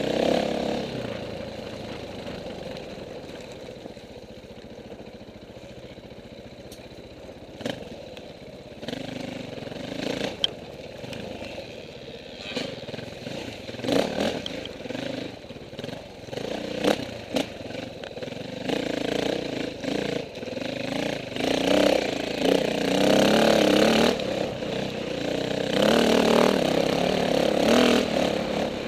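Off-road motorcycle engines running and revving, rising and falling with the throttle and growing louder in the second half, with scattered short knocks.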